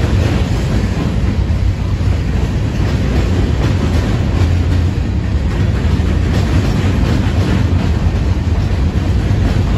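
Freight cars (covered hoppers and a gondola) rolling past: a loud, steady rumble of steel wheels on the rails, with faint repeated clacks as the wheels cross the rail joints.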